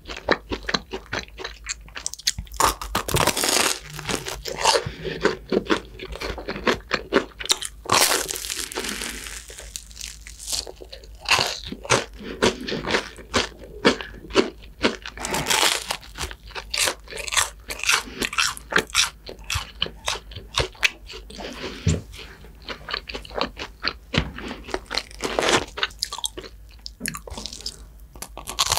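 Close-miked crunching and chewing of crispy bread: a twisted pastry with a crunchy crumb topping is bitten and chewed, with a rapid run of sharp crunches throughout.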